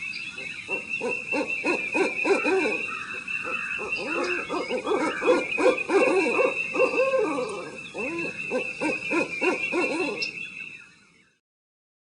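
Spooky night sound effect of an owl hooting over and over, against a steady high-pitched tone; it cuts off suddenly near the end.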